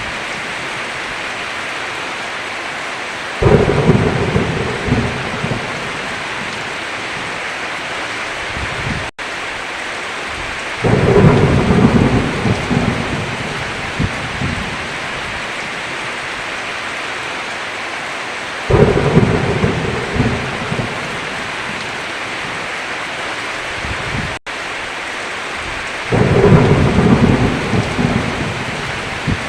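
Steady heavy rain with a roll of thunder about every seven and a half seconds, four in all, each rumbling for two to three seconds. The sound cuts out for an instant twice.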